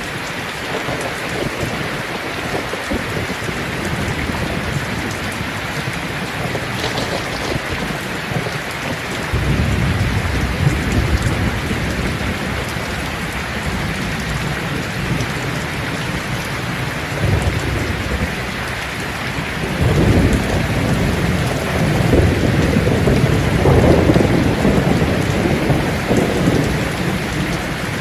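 Steady rain falling on leaves, with rolling thunder: a long low rumble begins about a third of the way in, and a second, louder one about two-thirds in.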